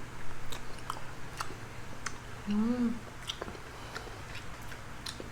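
Person chewing and eating, with scattered small wet mouth clicks and a short hummed "mm" about halfway through.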